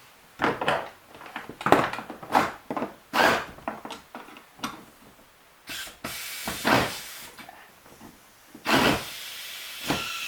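A series of clunks and knocks from hand tools and hardware being handled on a plastic kayak during a bolt-on seat-mount repair, with two stretches of steady hiss in the second half.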